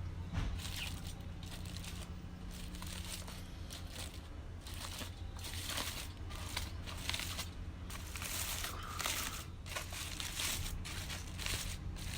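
Wood campfire crackling, with irregular snaps, over a steady low hum.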